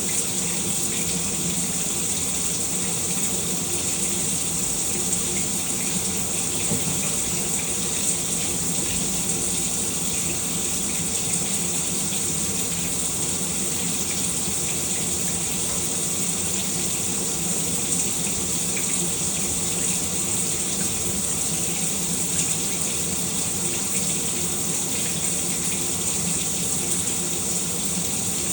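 Shower running steadily, water spraying and splashing down without change.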